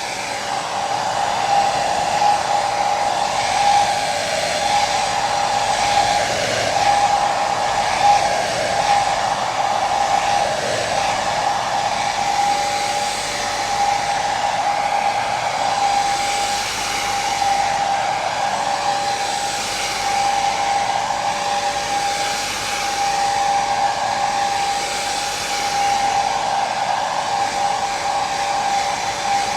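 Hair dryer running continuously: a steady rush of air with a constant motor whine, its upper hiss swelling and easing slowly.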